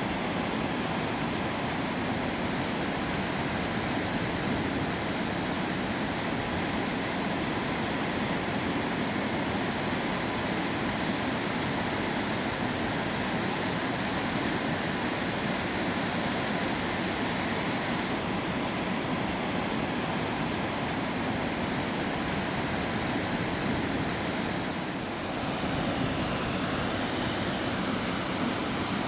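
Waterfall rushing: a steady, dense roar of falling water, briefly a little softer about 25 seconds in.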